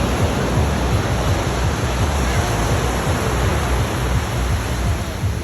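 Wind buffeting the microphone by the sea: a steady rushing noise over an uneven low rumble.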